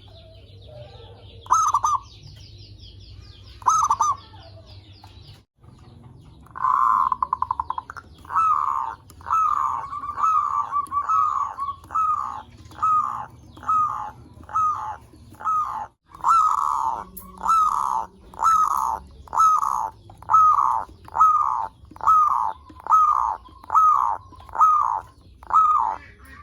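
Zebra dove (perkutut) cooing: two single coos, then a quick stuttering trill and a long run of repeated coos, about one a second, each a short falling note. Fainter high chirping from small birds is heard in the first few seconds.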